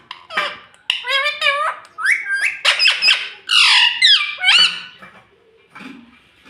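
Indian ringneck parakeet squawking: a quick run of shrill calls that bend up and down in pitch, falling quiet about five seconds in.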